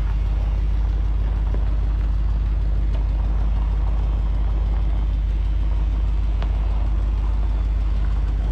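A truck engine running steadily, a continuous low rumble, with a few faint clicks.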